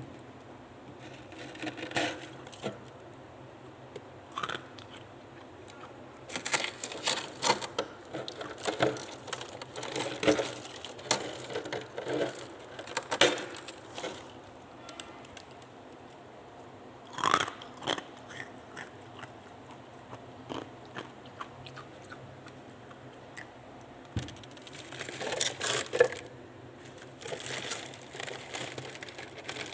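A person biting and chewing hard chunks of freezer frost, crunching in bursts of sharp, crackly crunches with quieter pauses between bites.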